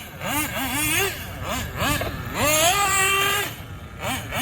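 Alpha Ryan Lutz nitro engine of a 1/8 RC buggy revving in quick throttle blips, its pitch repeatedly rising and falling, and once held briefly at a steady high pitch past the middle.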